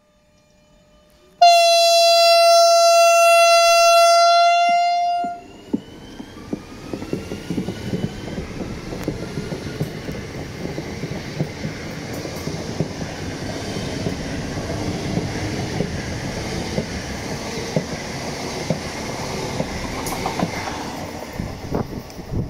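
Regional electric multiple-unit train sounds its horn, one steady high note about four seconds long, then runs past close by with a rising rumble of wheels and a rapid clatter over the rail joints.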